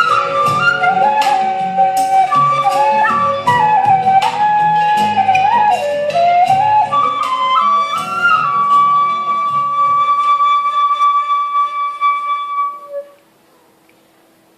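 Vietnamese bamboo flute (sáo trúc) playing the closing phrase of a melody over a backing track with low chords and light percussion. It ends on a long held note that fades out about thirteen seconds in.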